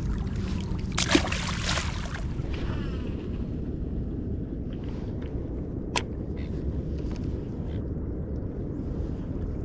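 Steady low rumble of wind and water around a small fishing boat, with a brief rushing noise about a second in and one sharp click near six seconds.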